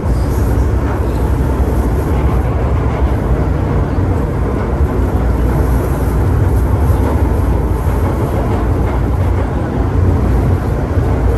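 MTR M-Train electric multiple unit running, heard from inside the car: a steady low rumble of wheels and bogies on the track.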